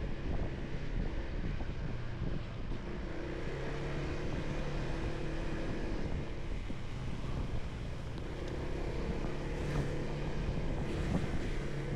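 Motorcycle engine running steadily while riding, with wind rushing over the helmet microphone.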